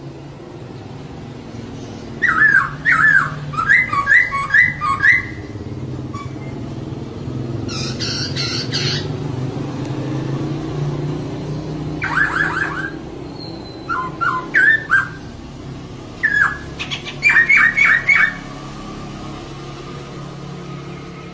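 Female poksay (laughingthrush) calling in several bursts of four to six quick, repeated squawky notes, with a harsher, noisier call about eight seconds in, over a steady low hum.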